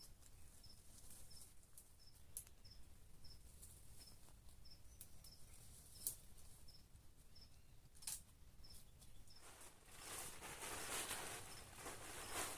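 Quiet forest ambience: a faint high chirp repeating evenly about twice a second, a few sharp clicks, and rustling that starts about ten seconds in.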